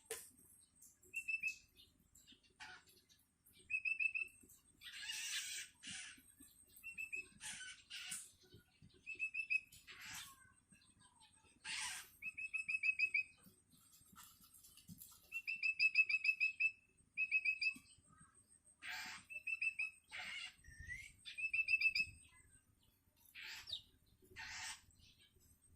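Young long-tailed shrike (cendet) calling over and over: short rapid chattering trills every second or two, mixed with harsh, raspy calls. These are the begging calls of a hungry fledgling calling for its parent.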